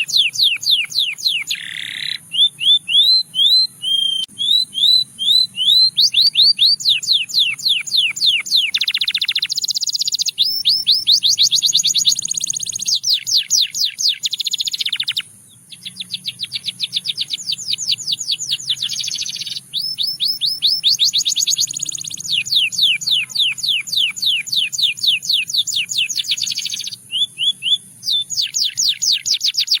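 Male canary singing a continuous song of rapid trills, each phrase a fast run of repeated high notes, switching to a new trill every second or two with brief gaps.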